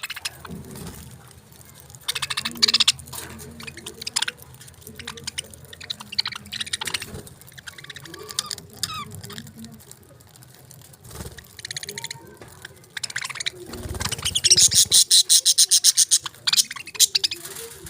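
Budgerigars chirping and chattering, with fast high-pitched bursts of chatter about two and a half seconds in and a longer, louder run near the end.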